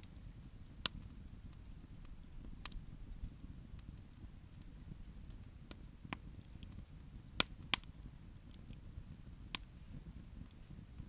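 Wood bonfire crackling: sharp pops every second or two, the two loudest close together about seven seconds in, over a low steady rumble.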